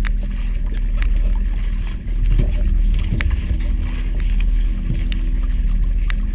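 Boat engine running steadily with a low hum, with scattered sharp ticks over it.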